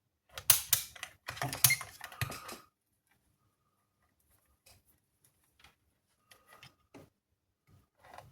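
Clicks and rattles of a multimeter and its probes being handled: a quick run of sharp clicks in the first couple of seconds, then only a few faint ticks.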